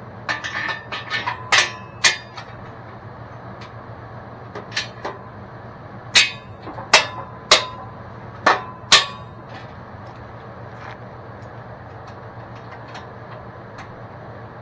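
Hammer striking metal: a run of quick, ringing knocks, then about five louder blows spaced under a second apart, over a steady low hum.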